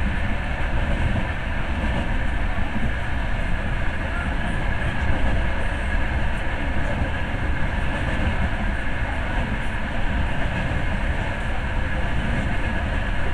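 Passenger train running steadily along the track: a continuous rumble and rush of wheels on rails, heard from inside the carriage.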